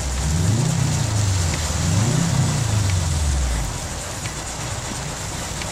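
Car engine revving up and easing off twice, its note then dropping away about three and a half seconds in, over a steady hiss of rain and water.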